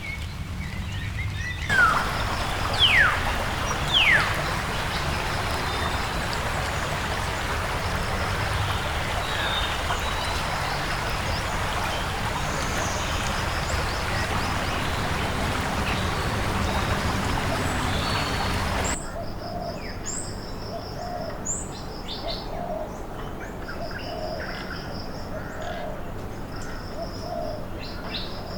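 Rainforest birds calling: three sharp falling whistles near the start over a dense steady hiss. The hiss cuts off abruptly about two-thirds of the way through, leaving quieter repeated short high chirps and low notes about once a second.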